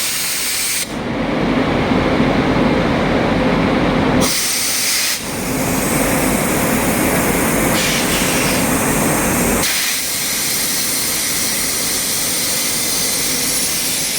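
Railway noise from a train: a steady loud rumble with hiss, its character shifting suddenly several times.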